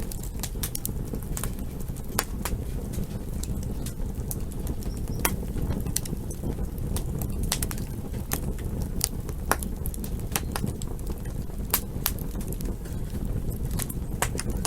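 Campfire burning: a steady low rumble of flames with sharp, irregular crackles and pops, two or three a second.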